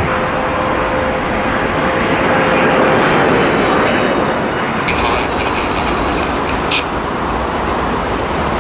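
Jet airliner landing, its engine noise mixed with heavy wind rumble on the microphone in a strong crosswind; a faint steady engine whine sits over the noise at first. The sound changes abruptly about five seconds in, and there is a short click near seven seconds.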